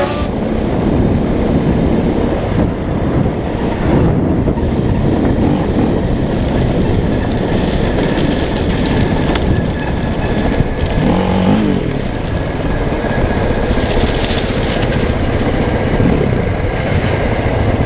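A train running on the track close by, mixed with the steady noise of a KTM 640 single-cylinder dirt bike riding alongside it on gravel, heard loud and continuous.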